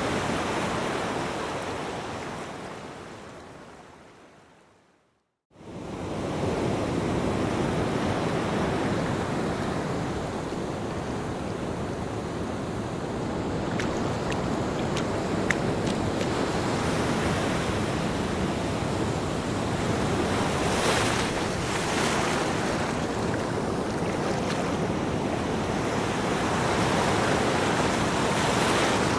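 Ocean waves washing and breaking on a beach, a steady surf hiss that swells and eases. The sound fades out to silence about five seconds in, then comes straight back.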